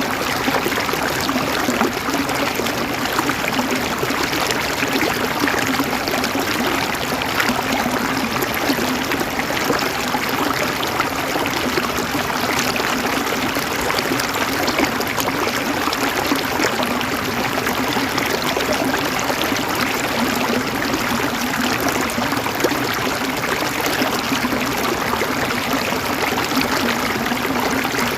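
River water running and burbling steadily over rocks, a constant rushing with fine splashy gurgles.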